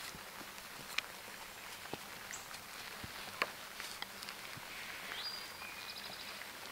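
Faint woodland ambience with a bird singing once about five seconds in: a note sliding up, then a short fast trill. A few light clicks and taps come from handling a guyline and tent stake.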